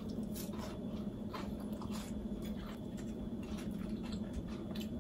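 A person biting into and chewing a crisp-edged bean sprout pancake (kongnamul buchimgae): irregular soft crunches and wet mouth sounds, over a steady low hum.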